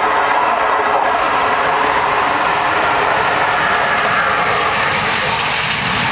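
Jet engine noise from Red Arrows BAE Hawk T1 jets, loud and steady, turning brighter and more hissing toward the end.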